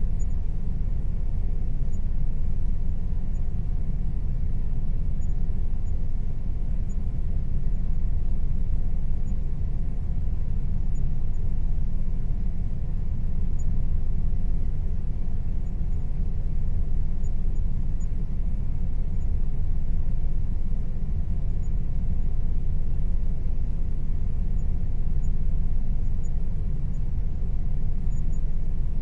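Air conditioner running steadily: a constant low rumble with a faint steady hum over it.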